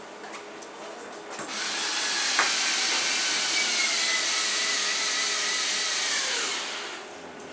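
An electric power tool's motor starts about a second and a half in and runs steadily with a high whine for about five seconds, then winds down near the end.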